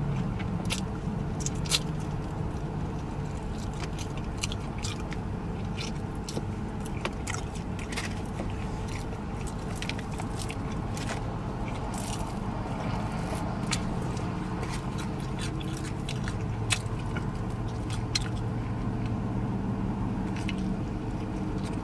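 Close-miked eating of fried chicken: chewing and lip smacking with many sharp wet clicks, over a steady low hum inside the car.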